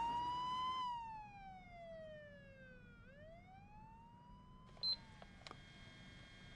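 Comic whistling sound effect: one whistle tone slides up, glides slowly down, rises again and falls away, fading as it goes. A few faint clicks come about five seconds in.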